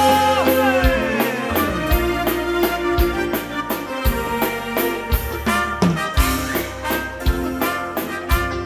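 Bandinha dance band playing an instrumental passage of a waltz, with a bass note about once a second and a falling run near the start.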